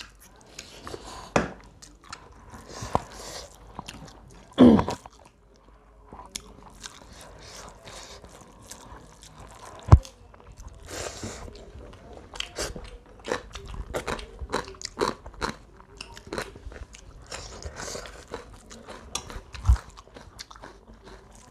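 Close-up eating sounds of a meal of rice, curry and crisp-fried chicken eaten by hand: steady chewing and crunching, with a few sharp knocks, the loudest about ten seconds in.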